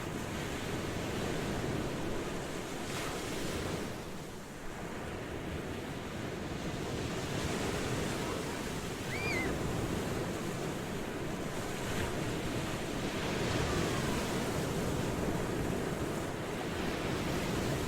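Ocean waves washing ashore continuously, in slow swells that build and ease every few seconds.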